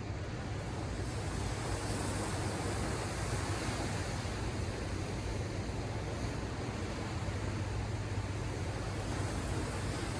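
Ocean surf heard from a distance, a wave's wash swelling about a second in and hissing on, over a steady low rumble.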